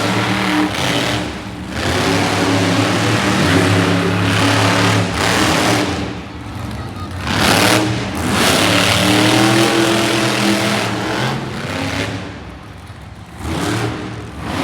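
Monster truck engine revving, its pitch rising and falling as it surges and eases off several times.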